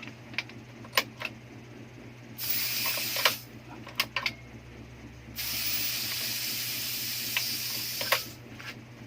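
High voltage leaking from a CRT TV's flyback cable: sharp electrical snaps with two stretches of hissing, one about a second long and one about three seconds long, over a steady low hum.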